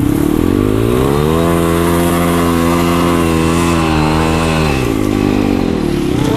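Pit bike engine revving up, holding steady at speed for about three seconds, then dropping back.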